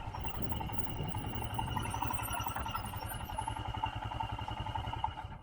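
Royal Enfield Himalayan's single-cylinder engine running with a rapid, even pulse, and a steady whine above it.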